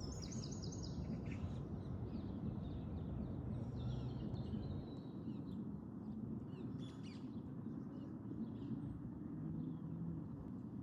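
Small birds chirping and trilling in short high calls, busiest in the first few seconds and thinning out later, over a steady low outdoor background rumble.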